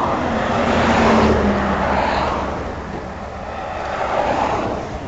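Highway traffic passing a roadside traffic stop: two vehicles go by, the louder about a second in and another around four seconds in, each a rising and falling rush of engine and tyre noise.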